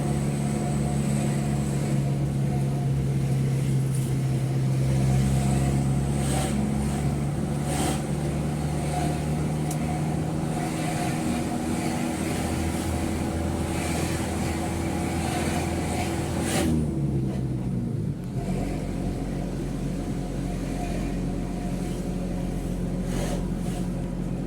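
Mitsubishi Fuso truck's diesel engine running steadily, heard from inside the cab. About seventeen seconds in, the engine note falls away as the truck slows, then settles at a lower pitch, with a few short knocks and rattles along the way.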